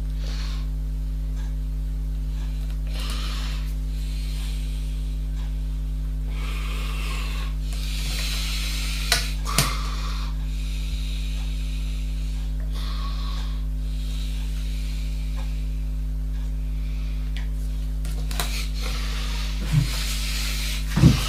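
Steady mains hum, with soft rubbing or rustling sounds now and then and a few sharp clicks, twice about nine seconds in and twice near the end.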